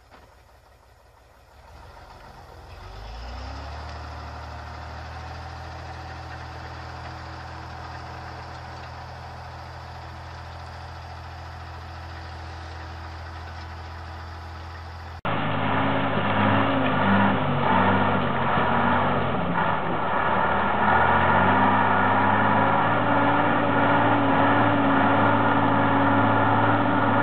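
A truck engine starts about two seconds in, rising in pitch and settling into a steady run. About halfway through, the sound cuts abruptly to a louder truck engine whose pitch wavers up and down as it works.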